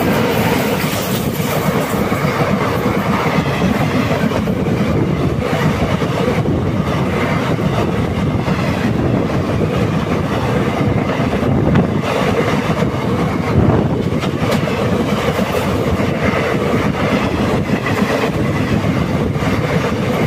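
Express train running past on the adjacent track while the listener's train stands still: a steady loud rush of wheels on rail with a fast clickety-clack of rail joints and couplings.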